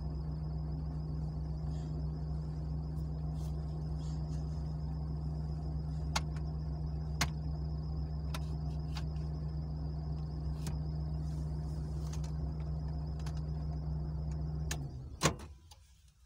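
Car's engine running steadily inside the cabin, with a few faint clicks, then cut off abruptly near the end, followed at once by one sharp click.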